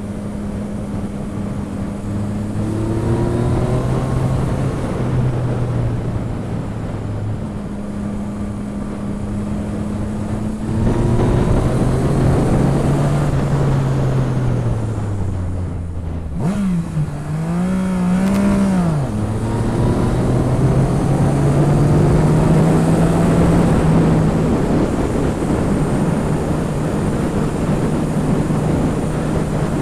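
Yamaha MT-09's three-cylinder engine pulling through the gears, its pitch climbing and dropping back at each gear change, with two quick rises and falls of engine speed around the middle, then holding steadier toward the end. Wind rush runs underneath.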